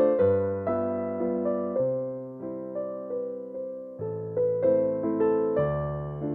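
Slow, gentle piano music: sustained chords with a soft melody, notes fading after each strike, thinning out to a quieter passage midway before picking up again.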